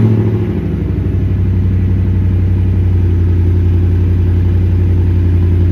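Car engine on a cold start, easing from the start-up flare into a steady, even idle.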